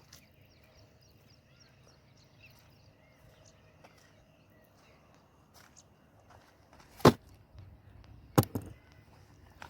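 Faint background hum, then a few sharp knocks or taps, the loudest about seven seconds in and two more about a second and a half later.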